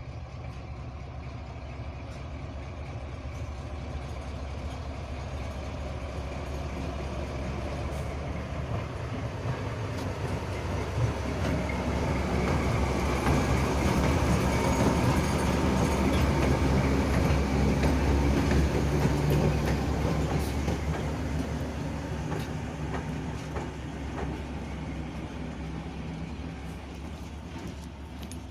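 Railway locomotive approaching, passing close by and moving away. A low rumble and steady hum grow louder to a peak about halfway through, then fade.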